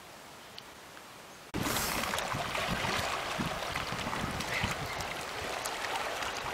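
Faint hiss, then about a second and a half in an abrupt cut to loud outdoor noise of rushing floodwater and wind on the microphone, peppered with small crackles.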